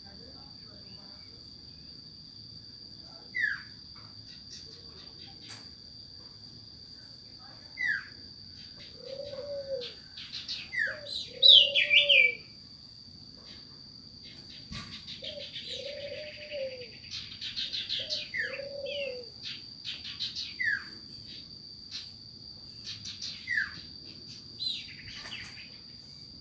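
Bird calls sold as a sirtu owl lure call: short, high, downward-sliding chirps every few seconds, with a run of low, arched, hoot-like notes in the middle. A steady high whine runs underneath.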